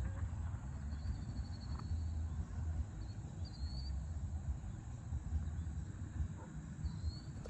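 Wind buffeting the microphone, a steady low rumble, with a few faint high chirps and a short trill about a second in.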